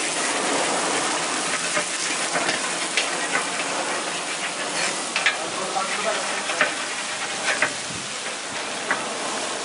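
Food sizzling and frying on a hot cooking surface: a steady hiss with scattered sharp clicks.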